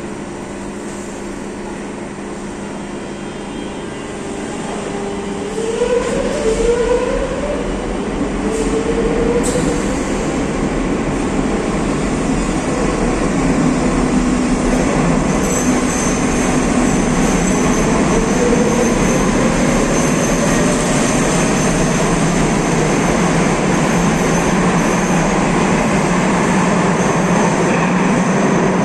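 Madrid Metro train 5507 pulling out of the station. A steady hum at first, then about five seconds in the traction motors start a series of rising whines as the train accelerates, and the rushing noise of the wheels on the rails grows louder and keeps up to the end.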